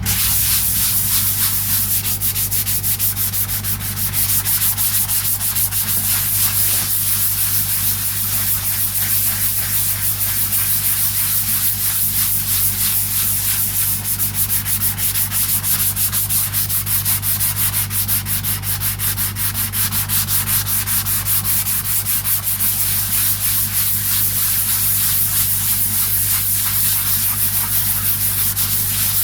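Sandpaper rubbed by hand in quick, steady back-and-forth strokes over a guitar body coated with grain filler, dry-sanding the dried filler smooth. A steady low hum runs underneath.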